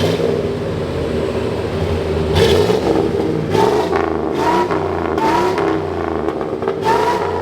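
Truck engine revved repeatedly through a newly installed muffler: a steady exhaust note with several quick rev blips, the pitch rising and falling with each one.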